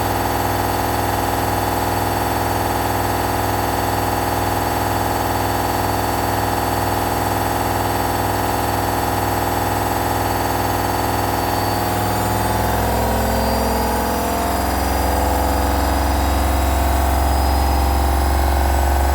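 Hoover DXA 8 kg 1400 washing machine running, a steady motor hum with many even tones. About two-thirds of the way in the pitch shifts and the low hum grows louder as the drum changes speed.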